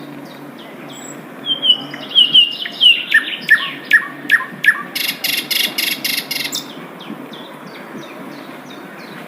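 A flycatcher known in Indonesia as sikatan londo singing. A loud, fast song phrase starts about a second and a half in and ends around two-thirds of the way through: falling notes, then a run of repeated notes, then a rapid loud trill. Quick soft chips repeat before and after the phrase.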